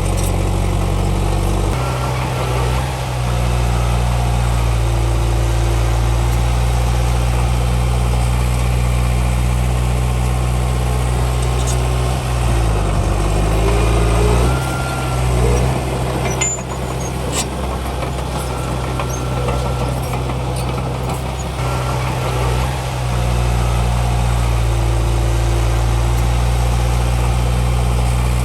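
Komatsu D31P bulldozer's diesel engine running steadily. About halfway through, its pitch dips briefly and climbs back.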